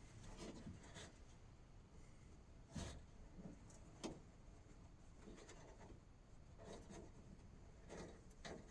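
Faint rustling and handling noises, with a few soft knocks, the clearest about three and four seconds in.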